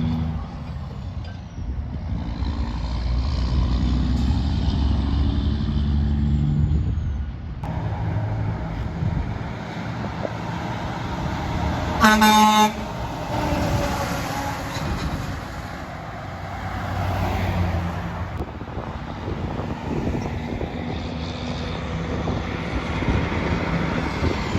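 Heavy trucks passing on the road, their diesel engines rumbling and tyres running. About twelve seconds in, one short, loud blast of a truck's air horn.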